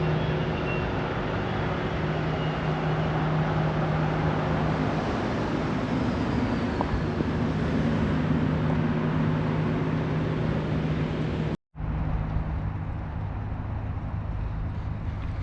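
Steady outdoor background noise with a constant low hum, like road traffic or a running engine. It drops out for an instant about twelve seconds in and resumes slightly quieter.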